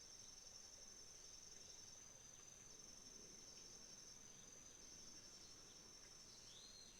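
Autumn crickets trilling steadily in a continuous high-pitched chorus, faint, with a single short bird note near the end.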